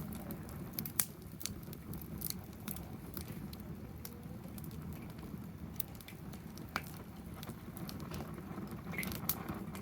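Wood fire burning in a fire stand, crackling with irregular sharp pops over a low steady rush.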